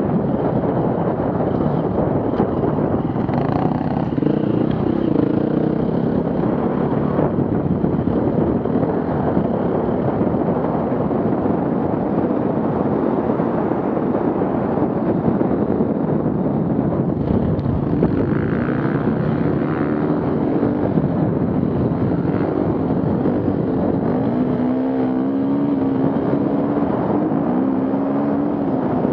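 Off-road vehicle engines running over a steady rushing noise, with an engine's pitch rising and falling a few seconds in and again near the end.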